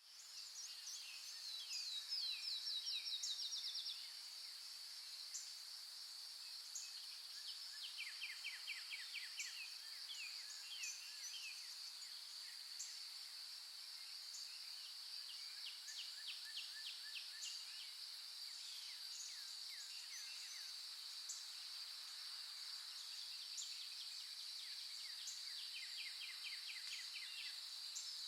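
Songbirds singing in the open: several rapid trills of quick falling notes, the loudest about two to four seconds in, with sharp single chirps between them. Beneath them runs a steady, high-pitched insect drone.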